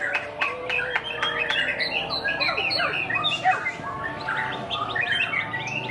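White-rumped shama (murai batu) singing a fast, varied stream of whistles and chirps in quick, overlapping phrases.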